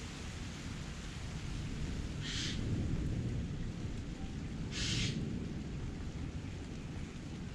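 Heavy rain pouring steadily, with a low rumble underneath that swells twice. Two brief, louder hissing gushes come about two and five seconds in.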